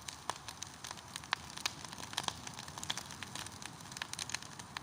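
Large bonfire crackling, with sharp, irregular pops and snaps over a steady hiss of burning.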